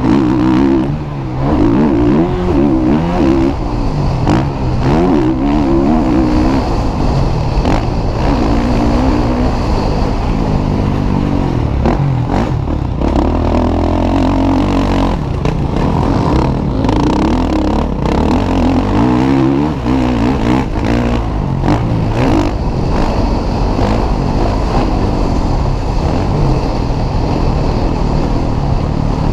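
Motocross bikes racing on the track, their engines revving up and down continuously as they accelerate and shift.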